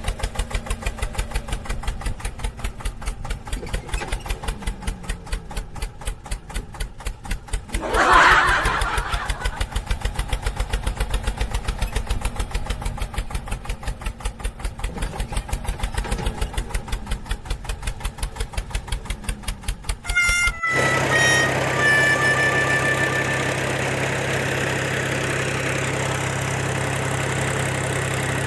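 Small engine running with a fast, even chugging beat. About 8 s in comes a louder swell with a falling pitch. The chugging cuts off abruptly about 20 s in, leaving a steady low hum with a few short falling tones.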